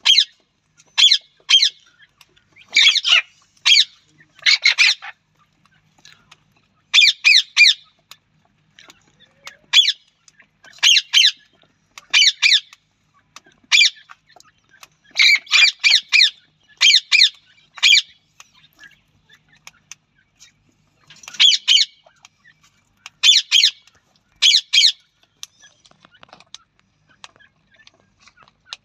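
Loud, harsh bird calls from a teetar (francolin) and a parrot, given in short bursts and clusters every second or two with brief pauses between them.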